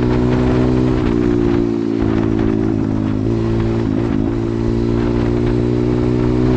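A 140cc pit bike's single-cylinder engine running under way on a ride. The pitch holds steady, with brief dips about a second in and again around three and four seconds in, as the throttle eases or a gear changes.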